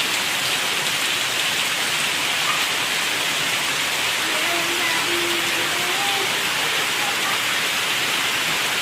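Steady heavy rain falling, an even hiss, with a faint child's voice a little past the middle.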